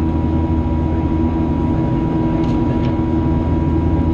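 Boeing 737's CFM56 turbofan engines and airflow making a steady, even drone as heard inside the passenger cabin in flight.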